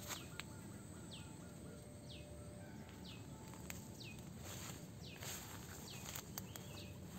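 A bird calling outdoors, a short whistled note sliding downward repeated about once a second, with a quick run of lower notes in the first second. Behind it, a steady faint rural background noise and a few soft clicks.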